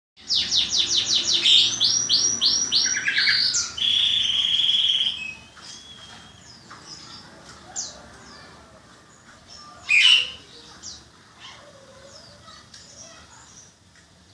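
Songbirds singing: a loud, fast run of repeated downward-sweeping notes, then a buzzing trill. About five seconds in the song drops to quieter scattered chirps, with one loud call about ten seconds in.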